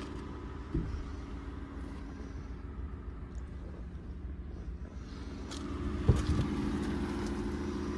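2021 Ford F-150 pickup's engine idling steadily, with a short knock about a second in and a sharper, louder knock near six seconds.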